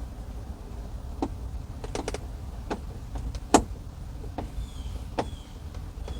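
Scattered clicks and knocks of parts inside a car door being pushed down and worked into alignment, the loudest knock about three and a half seconds in, with a few faint short high squeaks in the second half.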